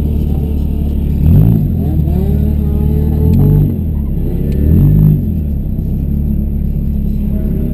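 Demolition derby car engine idling, revved up and let fall back three times in quick succession.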